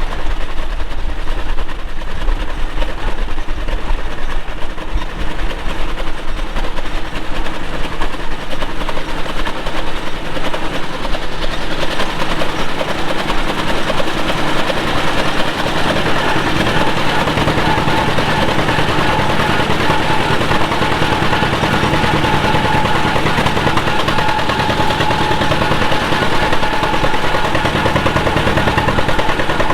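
Antique John Deere two-cylinder tractor engine running under way, its exhaust a rapid steady popping. It grows louder and fuller about halfway through.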